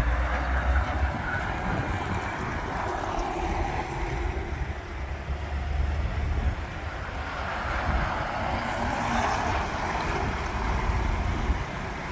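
Heavy trucks driving past: a steady low engine rumble with road noise that swells and fades as they go by.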